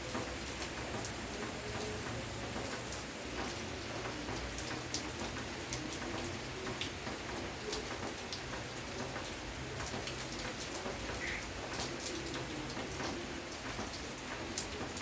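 Steady rainfall, with many separate drops ticking sharply over an even wash of rain.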